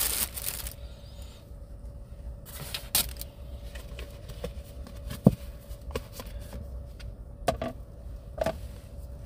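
Handling noises while napa cabbage is washed at a small sink: short rustling bursts at the start and again about three seconds in, then scattered light clicks and knocks. A faint steady hum runs underneath.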